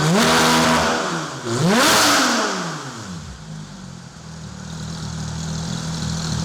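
Porsche 991 GT3 flat-six through an IPE Innotech F1 exhaust, blipped twice: the revs climb and fall back each time, then the engine settles to a steady idle about three seconds in.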